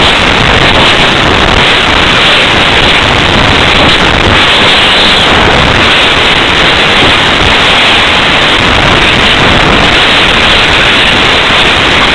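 Wind rushing over the microphone of a small camera mounted on a slope-soaring glider in flight: a loud, steady rushing noise with no engine note.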